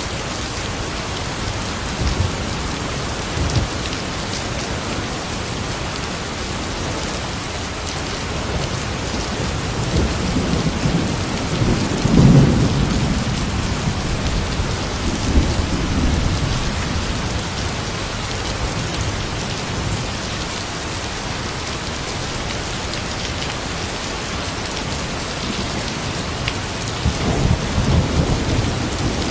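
Steady rain falling, with rolling thunder rumbling low: the loudest rumble swells about twelve seconds in, and another builds near the end.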